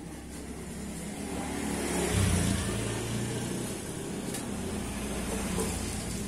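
A motor vehicle engine running, growing louder about two seconds in and then slowly easing off.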